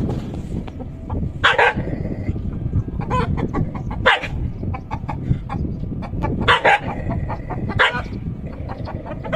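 A rooster and a dog fighting: the rooster squawks and clucks and the dog barks, in about five loud, short outbursts over a constant scuffling rumble.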